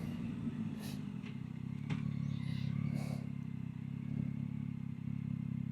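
Yamaha Tracer 9 GT motorcycle's three-cylinder engine running at a steady pace while being ridden.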